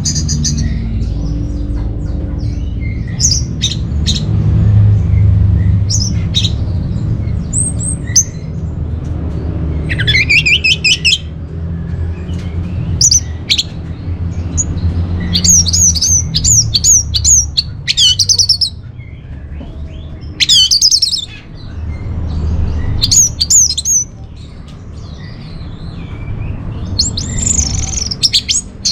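Orange-headed thrush singing: short bursts of fast, varied whistled phrases with rapid up-and-down sweeps, repeated every second or two, over a steady low rumble.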